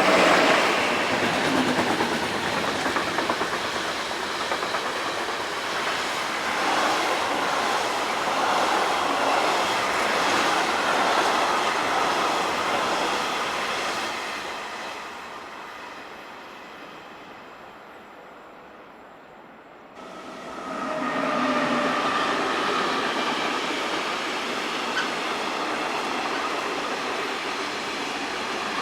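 Steady rumbling noise like a train running on rails. It fades away, then comes back suddenly about two-thirds of the way through.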